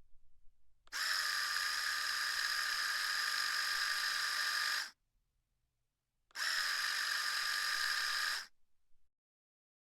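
Electric shaver running in two steady buzzing runs, about four seconds and then about two seconds long, with a short silence between. The ultrasonic recording is played back pitched down one octave.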